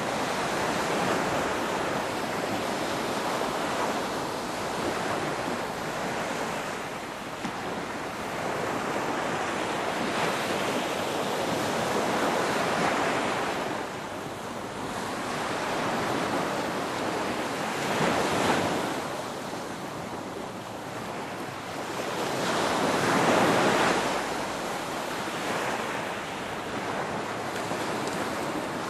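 Ocean surf: waves breaking and washing in, the rush swelling and fading every few seconds, loudest about two-thirds of the way through and again near the end.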